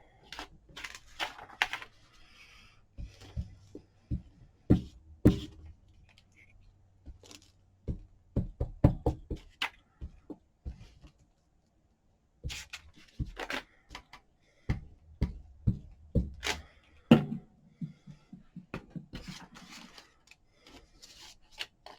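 Irregular knocks, taps and clicks of craft tools and paper being handled and set down on a tabletop.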